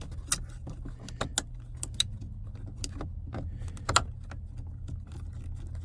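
Sharp plastic clicks and rattles as the window switch is pried and worked loose from its clips in the door trim, several spaced a second or so apart with the strongest about four seconds in, over a steady low hum.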